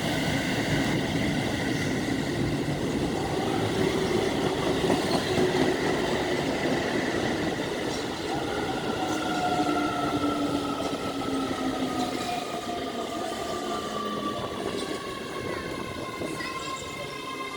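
Keio commuter electric train running past on the rails, its motors whining in several tones that slide slowly down in pitch over the second half as the train slows.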